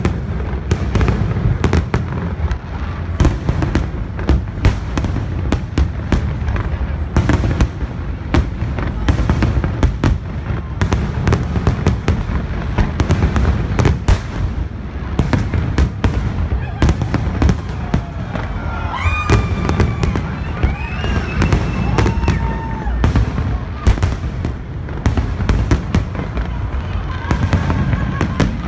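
Large aerial fireworks display: a dense, continuous string of shell bursts and bangs over a heavy low rumble.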